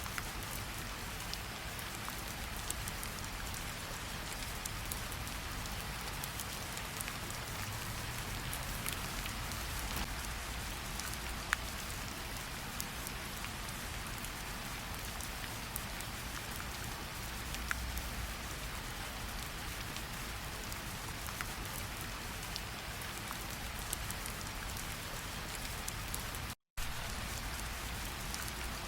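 Steady rain falling, with many separate drops ticking through the even hiss. The sound cuts out completely for an instant about three-quarters of the way through.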